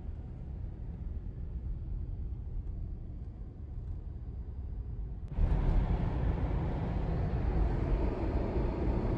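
Car driving, a steady low road and engine rumble that turns abruptly louder and fuller about five seconds in.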